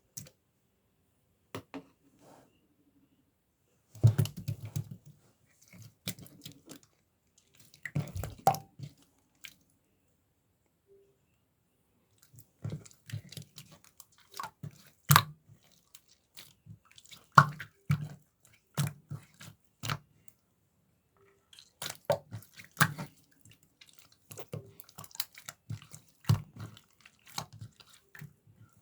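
Mint-chocolate slime being squished and pressed by hand: irregular sticky clicks, pops and short crackles in bursts, with brief pauses between them.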